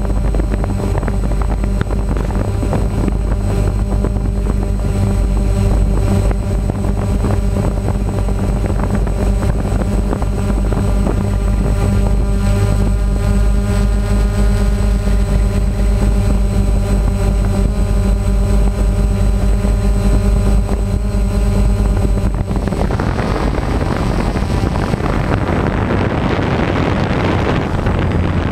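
An engine running steadily with a fast low pulsing; about 22 seconds in it gives way to a broad rushing hiss.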